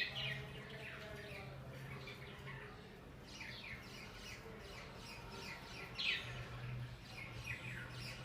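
Pet budgerigars chirping: a run of short, quick falling chirps, the loudest about six seconds in, over a low steady hum.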